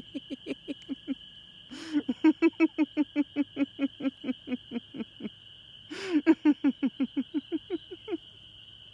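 A person laughing heartily in three long runs of rapid 'ha-ha-ha' bursts, about four a second, each run starting with a sharp gasp of breath. A steady high-pitched tone hums faintly underneath.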